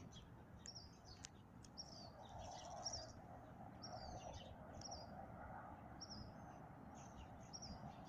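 Small birds chirping faintly, short high chirps repeating every second or so over a faint steady background noise.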